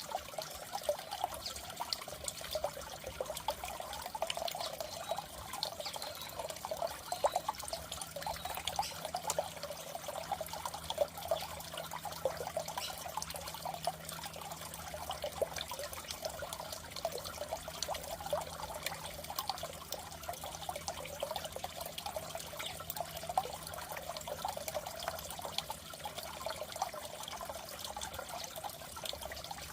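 Goldfish aquarium water trickling and bubbling steadily, with a faint low hum underneath.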